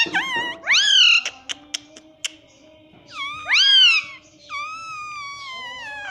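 Ring-necked parrot calling: a few loud pitched screeches that rise and fall, the last a long falling call, with sharp clicks in between.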